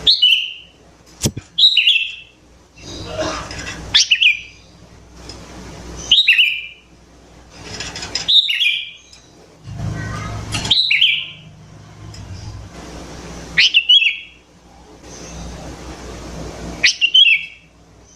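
Sooty-headed bulbul (kutilang) calling, about eight short, loud calls spaced roughly two seconds apart. Each call is a quick note that drops in pitch, with a faint hiss between calls.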